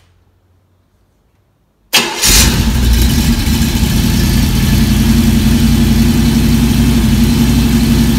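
An engine on a run stand, exhausting through Flowmaster mufflers, fires up suddenly about two seconds in and then runs steadily.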